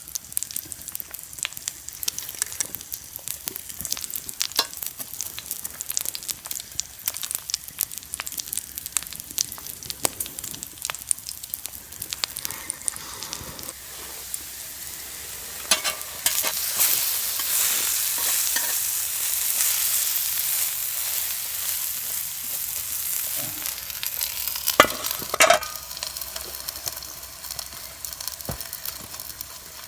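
Food frying in a pan: a steady sizzle with many small pops and spatters. The sizzle grows louder about halfway through, with a couple of sharper clinks or knocks near the loud stretch.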